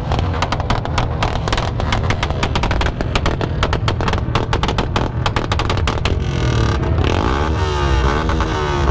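Motorcycle exhaust firing a rapid, irregular string of crackling pops for about six seconds, then an engine revved up and down over and over.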